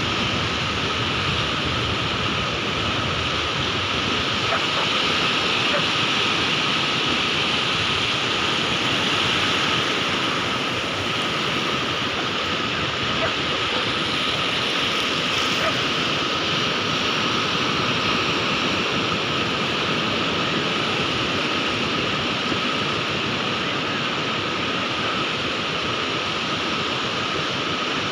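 Sea surf: a steady wash of waves with no single breaker standing out, swelling slightly a few seconds in.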